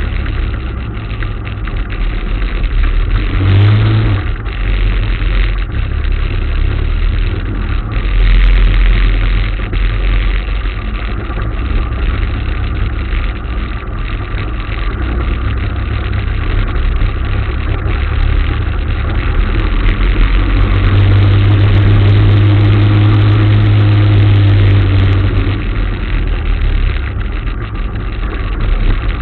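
Motorcycle engine running on the road over a steady rushing noise. The engine note grows stronger and holds steady for several seconds past the middle.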